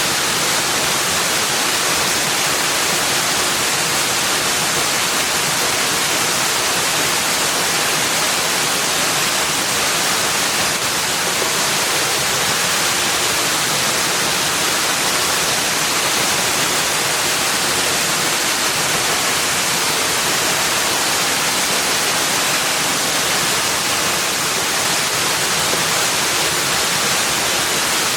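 A steady, unchanging rushing hiss, strongest in the upper range, with no separate calls, drips or other events.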